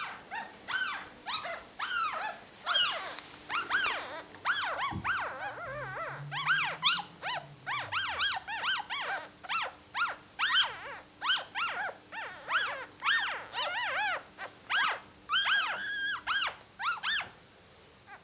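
Newborn Phalène puppies squeaking: a long run of short, high-pitched squeaks, one or two a second and sometimes overlapping, like a squeaky toy duck.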